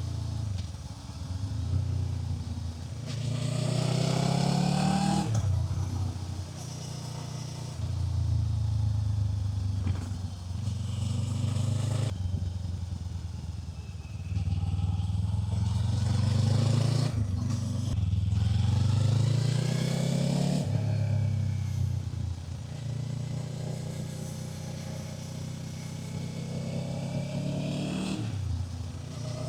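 Kawasaki Z500's 451 cc parallel-twin engine under way. It pulls up through the revs several times, its pitch climbing and then dropping sharply at each gear change, and runs steadier and lower for a while near the end.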